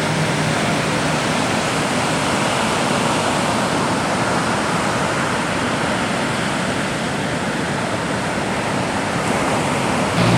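Steady rushing noise of ocean surf, even and unbroken.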